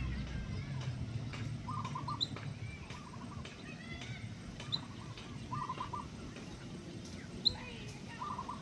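Wild birds calling: one bird repeats a short, quick run of four or five notes about every three seconds, while another gives brief, high single chirps every couple of seconds.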